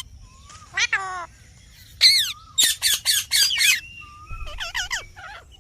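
Parrot squawking in a string of short, harsh calls. The loudest comes about two seconds in, followed by a quick run of about five calls and a few more near the end.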